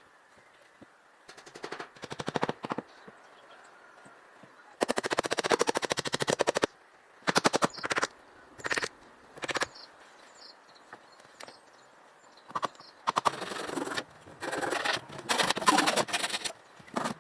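Short bursts of rapid, evenly spaced rattling clicks, repeated a dozen or so times with pauses between, from a tool at work.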